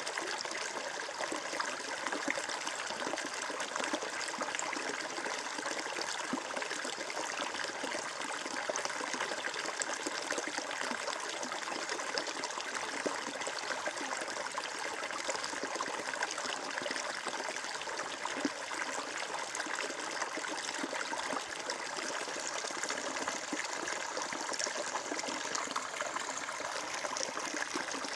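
Flowing water running steadily: an even rush with many small splashes, without pauses or changes.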